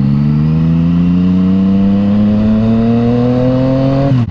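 Yamaha MT-09's three-cylinder engine through an Akrapovič exhaust, pulling hard with the revs climbing steadily under acceleration, then falling sharply just before the end.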